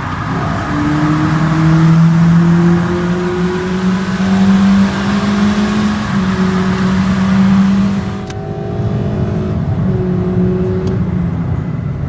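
2020 Toyota Corolla's four-cylinder engine accelerating with its air box opened up. The engine note climbs slowly in pitch with a couple of small steps, then about eight seconds in the throttle is released and the sound falls back to a quieter, steady drone.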